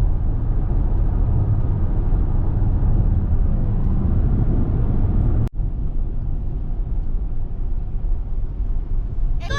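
A car driving, with a steady low road and engine rumble, broken once by a brief cut about halfway through.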